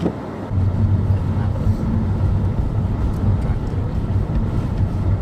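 Steady low rumble with a rushing hiss, typical of vehicle and wind noise in a whiteout blizzard. It comes up about half a second in and holds at an even level.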